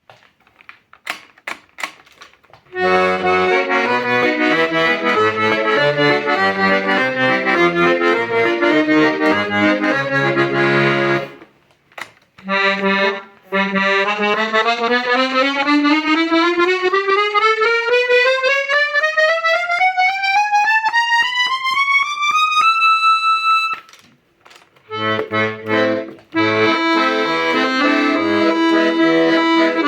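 Hohner Concerto II piano accordion being played: a few clicks, then chords over a bass line, then a long rising scale of single notes up the treble keyboard that ends on a held note, and after a few more clicks the chords and bass again.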